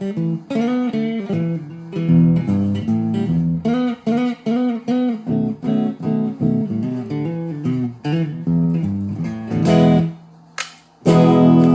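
Electric guitar through an amplifier playing a picked single-note line with several bent notes, then, after a brief pause near the end, a loud ringing chord. The month-old strings have just been cleaned with Dunlop 65 string cleaner, and the player hears them as crisper and less dull.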